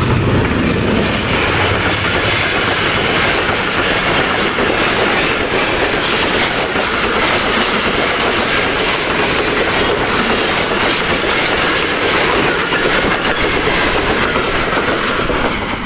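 Passenger express passing at high speed: the ZCU-30 diesel-electric locomotive's engine at the start, then the coaches' wheels clattering steadily over the rail joints.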